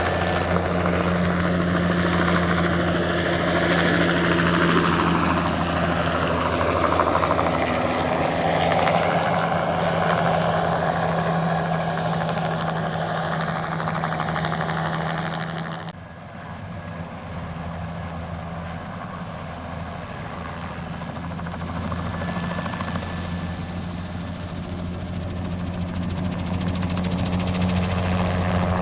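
Light turbine helicopter flying, a steady low rotor hum with turbine noise above it. The sound drops abruptly about halfway through, then grows louder again toward the end.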